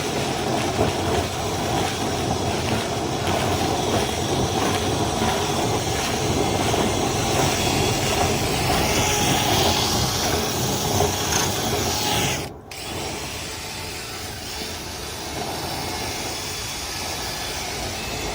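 Power tool running steadily during dryer vent cleaning, with a mechanical rattle. It cuts out abruptly about twelve seconds in, and a quieter steady running noise follows.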